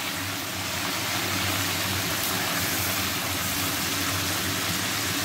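Chicken pieces frying in hot oil in a kadai: a steady sizzle, with a low hum underneath.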